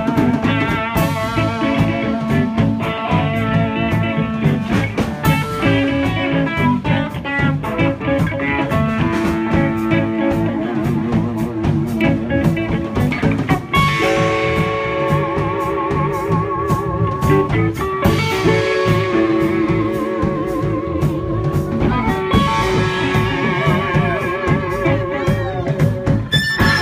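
Live blues band playing an instrumental break over a steady drum beat. From about halfway through, a lead instrument plays long, wavering held notes.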